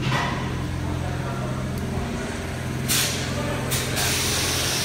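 Vehicle engine idling steadily, with loud bursts of hissing about three seconds in and again near the end.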